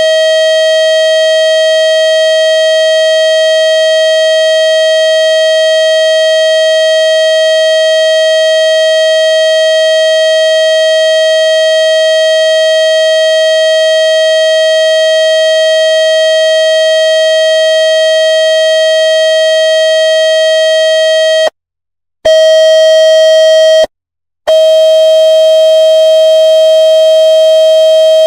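Synthetic water-ejection tone for clearing a phone speaker: one loud, steady, buzzy tone with many overtones that holds its pitch. It cuts out twice for under a second about three quarters of the way through, then resumes.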